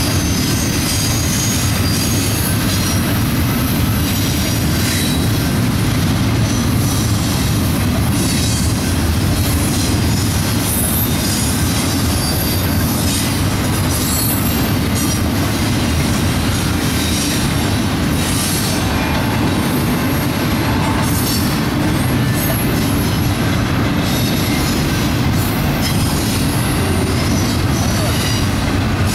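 Double-stack intermodal train's loaded well cars rolling steadily past: a continuous low rumble of steel wheels on rail, with scattered short high wheel squeals.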